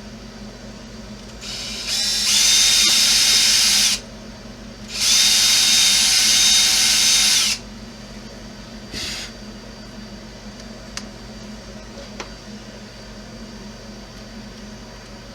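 Electric power drill run in two bursts of about two seconds each at a steady high whine, boring out a hole, with a brief blip of the trigger a little later.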